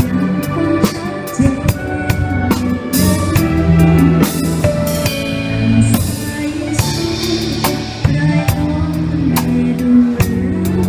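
An orchestra with drum kit playing a song: sustained instrumental notes over a steady drum beat, with cymbal crashes a few seconds in.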